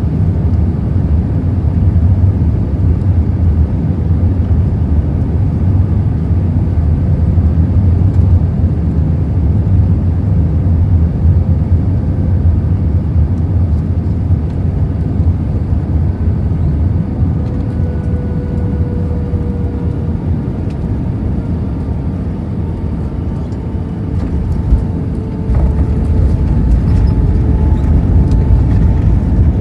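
Airbus A319 cabin noise: a loud, steady low rumble of engines and airflow, with a faint whine that slowly falls in pitch. The rumble dips slightly and then steps up suddenly about 25 seconds in.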